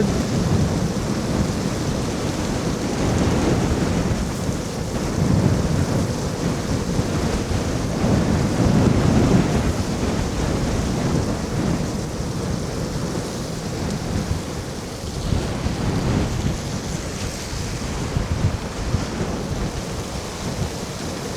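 Headwind buffeting the microphone of a moving electric scooter in a snowstorm: a steady rush with low rumbling gusts that swell and fade every few seconds.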